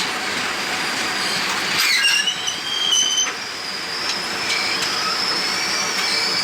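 Passenger train running, with wind rushing past the open window and the wheels clattering on the rails. About two seconds in, a high steady wheel squeal starts and continues, typical of the wheels grinding on a curve.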